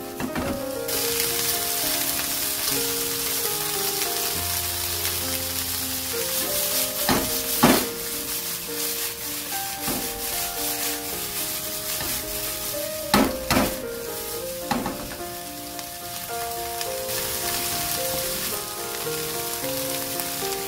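Green bell pepper strips sizzling as they stir-fry in a nonstick pan, with a steady hiss and a few sharp knocks, the loudest about eight and thirteen seconds in. Quiet background music with a melody plays underneath.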